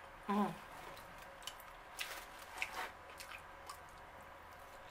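Quiet eating sounds: chewing and soft mouth noises while eating orange chicken and chow mein with chopsticks, with a short hum about half a second in and scattered small clicks and taps.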